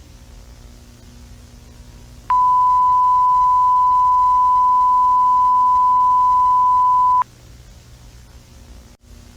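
A single steady, pure high-pitched electronic beep, about five seconds long, starting about two seconds in and cutting off sharply, over a faint low hum.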